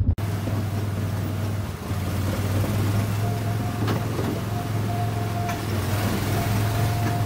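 A small ride car's engine running steadily as the car drives along, a constant low hum under an even rushing noise.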